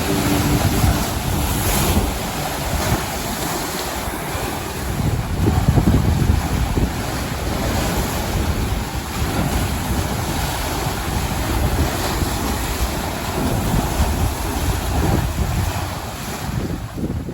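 Sea waves surging and breaking on the shoreline, with strong wind buffeting the microphone and a louder surge about six seconds in.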